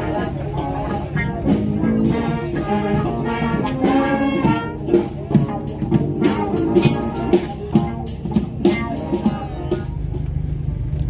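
A live swing band playing, with pitched instruments and a drum kit keeping a steady beat, heard over the low steady running of a car engine. The music falls away near the end, leaving the engine hum.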